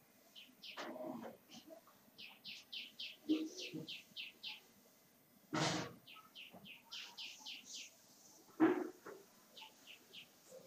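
A bird chirping in quick runs of short high notes, about four or five a second, in three bouts. A few faint low sounds come in between, and a short sharp noise about halfway through.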